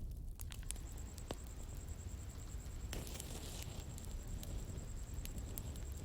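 Outdoor bonfire burning: scattered sharp crackles and pops of wood over a low steady rumble of the flames, with a brief hiss about halfway through. A faint steady high whine comes in about a second in.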